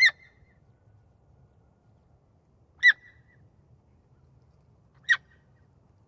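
A bird's short, high call, repeated three times about two and a half seconds apart.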